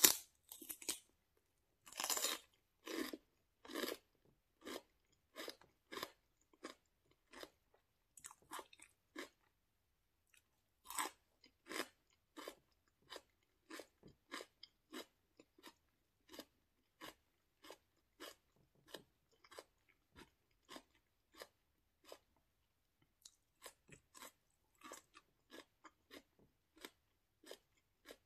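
Crunchy chewing of a bite of raw celery with hummus: a loud crunch at the bite, then steady crunching chews, roughly two a second, growing softer, with another loud crunch about eleven seconds in.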